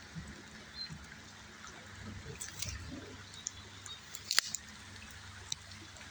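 Shallow river water trickling and dripping, with scattered small clicks and one sharper click about four seconds in.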